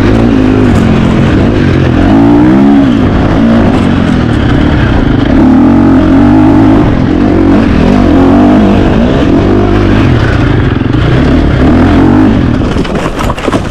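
KTM 350 XC-F dirt bike's single-cylinder four-stroke engine under load, revving up and down over and over as the rider works the throttle through the course; it backs off near the end.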